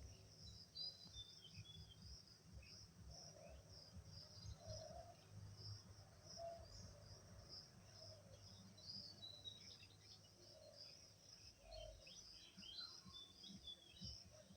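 Faint background of small birds chirping, with a steady pulsing insect trill behind.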